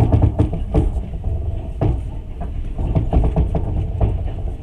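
Passenger train running, heard from inside the carriage: a steady low rumble with irregular knocks and clatter.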